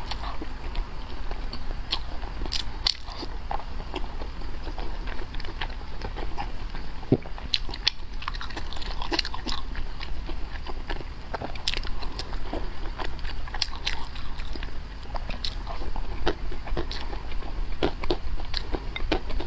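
A person chewing and biting food close to the microphone, with irregular sharp, crunchy clicks and wet mouth sounds.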